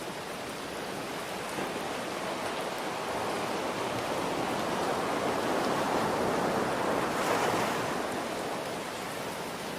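Ocean waves breaking and washing up, one swell building over several seconds, peaking about three-quarters of the way through and then ebbing, over a steady hiss of rain.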